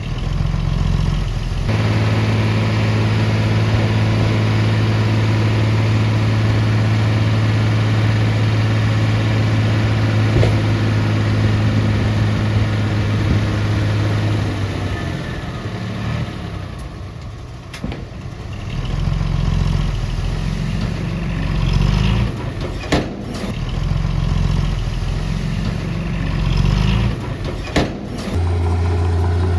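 Heavy earthmoving machinery's diesel engine running, steady for the first half and then rising and falling in repeated surges as it works, with a few sharp knocks in the later part.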